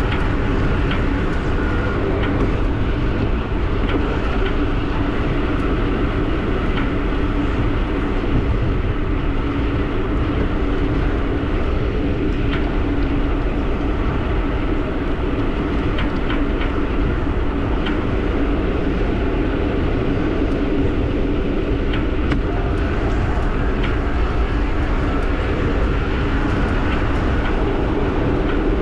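Wind rushing over the camera microphone of a moving e-bike, with a steady hum and scattered faint ticks.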